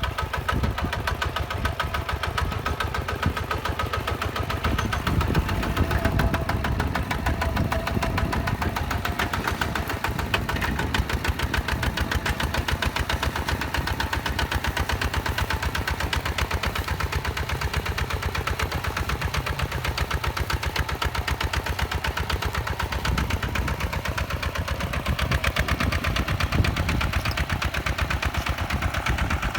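Hinota HG Gold 155 DI tractor's direct-injection diesel engine running steadily, with a rapid, even knocking beat.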